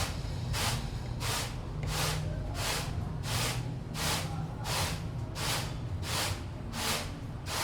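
Traditional hand-worked rice-processing tool being worked in a steady rhythm: a repeated swishing, grinding stroke about one and a half times a second as rice is fed through it.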